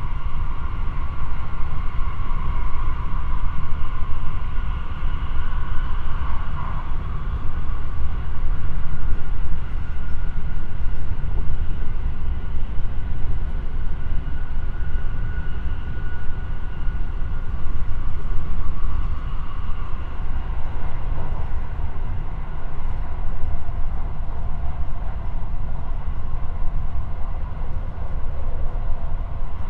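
JR West 223 series electric multiple unit heard from inside a passenger car while running: a steady low rumble of wheels on rail, with a faint whine over it.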